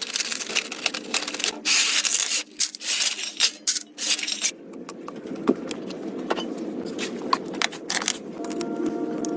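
Scraping and rubbing noises broken by many sharp clicks and clinks, as of parts being handled, busiest in the first half and lighter ticks later. Steady held tones come in near the end.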